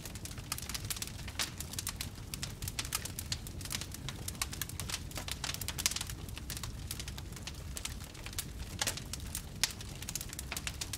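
Wood fire in a fireplace crackling and popping, irregular sharp snaps over a steady low rumble, with a few louder pops.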